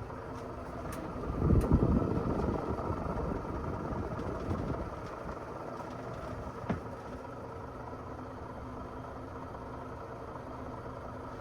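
Worn SMC Laguna ceiling fan running on high speed with a noisy, steady hum, swelling louder for a moment about two seconds in, with a single click near the middle.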